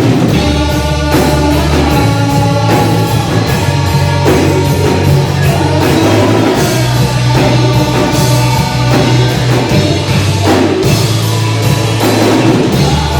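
A rock band playing live, with drum kit, electric guitar and bass guitar; the bass holds steady low notes that change every second or two.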